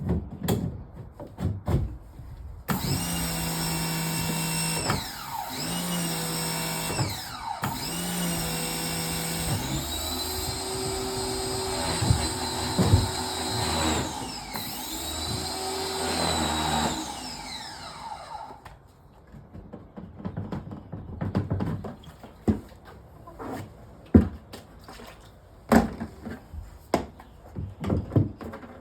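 Electric motor of a drain-clearing power tool running for about fifteen seconds, its pitch dropping and picking back up several times as it loads and is re-triggered, then stopping. Scattered knocks and clatter of the tool and pipes come before and after.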